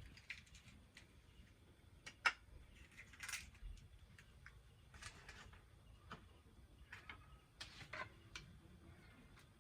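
Scattered light clicks and knocks of kitchen utensils and dishes being handled, the sharpest about two seconds in, with a few soft scrapes between.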